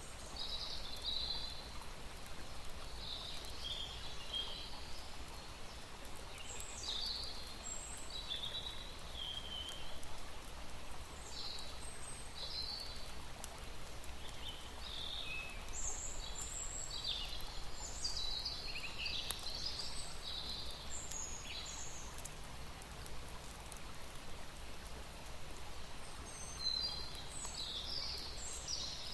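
Small birds chirping and calling again and again in short high notes over a steady outdoor hiss.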